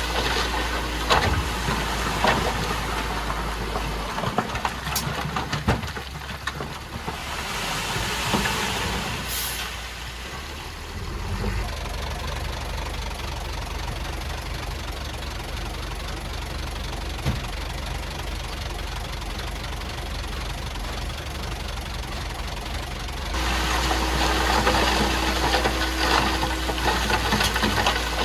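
Komatsu D51PX bulldozer's diesel engine running under work, with scattered metallic clanks. The engine eases off about four seconds in, stays lower for most of the stretch, and picks up again near the end.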